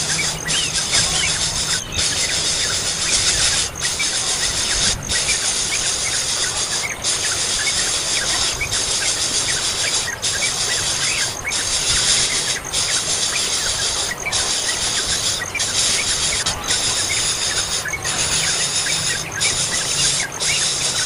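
Many small birds cheeping and squealing nonstop, short high chirps over a dense high-pitched hiss, typical of young birds begging.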